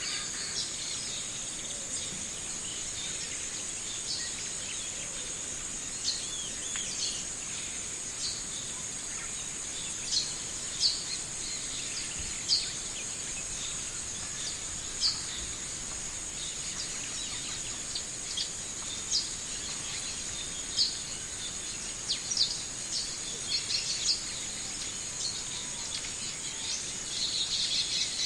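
Short, sharp bird chirps every second or two over a steady high-pitched insect drone; the chirping comes thicker near the end.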